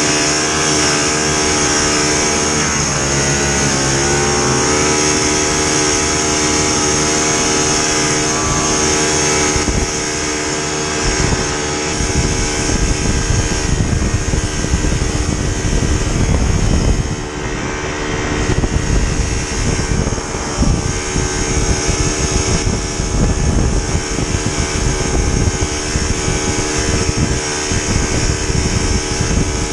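Vintage snowmobile's two-stroke engine running steadily under way. Its pitch dips briefly about three seconds in. From about twelve seconds on, wind buffeting on the microphone rises under the engine.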